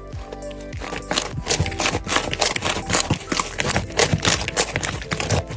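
Slime being squeezed and worked by hand, giving rapid, irregular crackling clicks and pops that grow denser about a second in.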